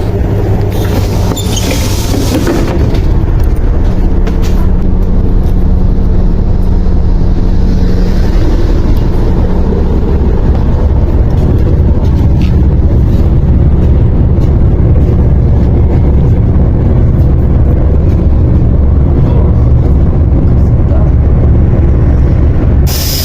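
Diesel engine of a MAZ 104 city bus running under way, heard from inside the bus as a loud, steady low hum with road noise. Short bursts of hiss come about two seconds in and again right at the end.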